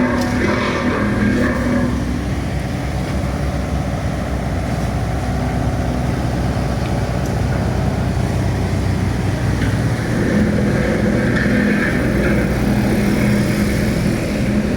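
An engine running steadily with a low drone, growing stronger about ten seconds in.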